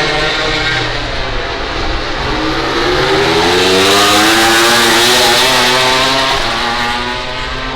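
MotoGP prototype racing motorcycle accelerating hard past, its engine note climbing steadily in pitch, loudest about four to five seconds in and then fading.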